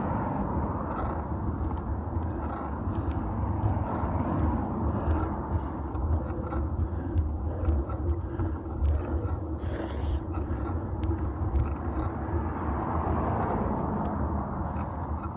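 Bicycle riding heard through a phone mounted on the bike: a steady rumble of tyres rolling on the road with wind, and frequent short clicks and rattles from bumps.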